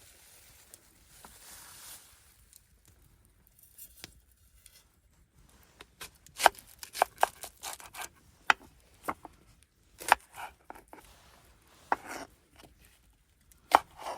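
A string of sharp, irregular clicks and knocks, mostly in the second half.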